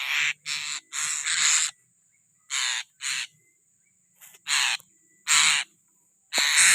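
Tanau birds giving a series of harsh, screechy calls, about nine short ones in uneven groups with pauses between.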